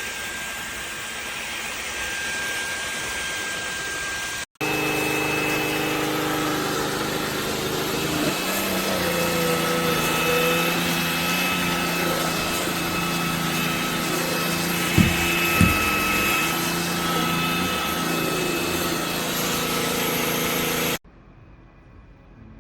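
LEVOIT LVAC-200 cordless stick vacuum running steadily with a motor whine, broken by an edit about four and a half seconds in. Two sharp clicks come about three-quarters of the way through, and near the end the sound drops off sharply to a much quieter background.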